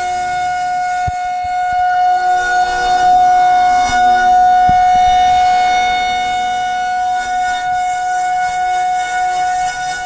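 Outdoor warning siren sounding a steady, unwavering tone, loud and rich in overtones, swelling slightly louder in the middle and easing back.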